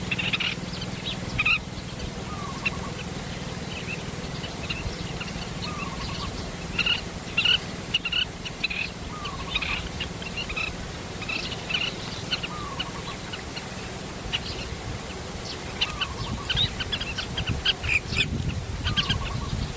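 Several birds calling at a lake: a dense scatter of short, high chirps throughout, with a short falling call repeated every two to three seconds.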